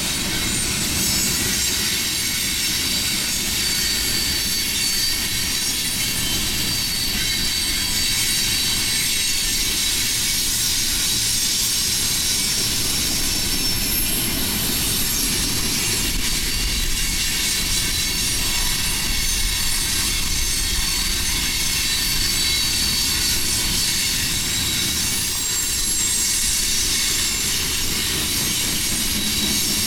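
Freight train cars rolling past steadily, with thin, high, steady squealing from the wheels.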